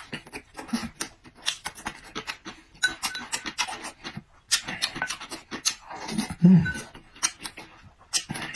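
A person chewing food close to the microphone: a quick, irregular string of wet clicks and crunches, with a short low hum from the eater about six and a half seconds in.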